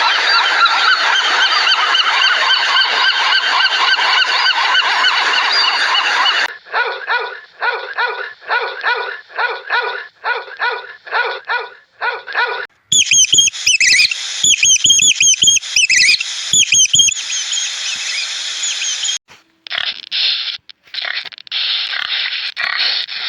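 A string of separate animal-call clips, mostly bird-like. First a dense chorus of many overlapping calls, like a large flock. Then a run of short pitched calls repeated about twice a second, then higher, sharper calls with sharp clicks, and another crowded chorus near the end.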